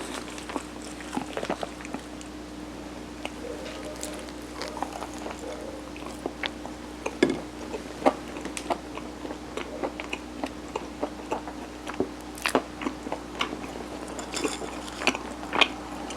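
Close-miked chewing of soft Korean mung-bean steamed rice cake (sirutteok): irregular wet smacks and small mouth clicks, over a faint steady hum.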